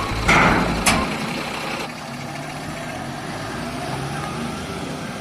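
Heavy diesel machinery running steadily, a backhoe loader and tipper truck working, with a short loud burst of noise ending in a sharp clank about a second in.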